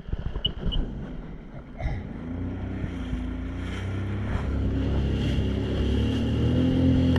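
Jet ski engine running at low speed, then picking up from about two seconds in, its steady drone growing louder and slightly higher as the craft gets under way. Two short high beeps sound near the start.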